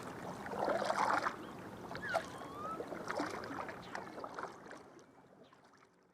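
Water splashing and lapping around a kayak in small, irregular splashes, fading out near the end.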